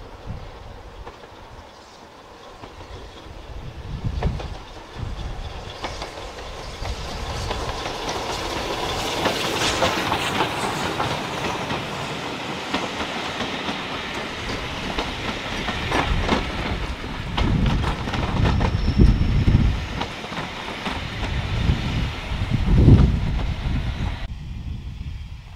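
Heritage passenger train passing close by, its coach wheels clicking over the rail joints. The sound swells as the train approaches and stays loud as the coaches roll past, with heavy low rumbles in the last few seconds.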